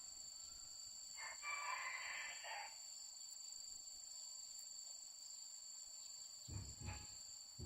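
Female red-whiskered bulbul giving a short, chattering call about a second in, over a steady high insect-like whine. A couple of dull low thumps near the end.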